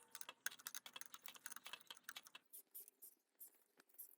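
Faint, quick metal clicks and taps of a hand tool working the bolts on an electric water heater's top cover, thinning out after about two seconds.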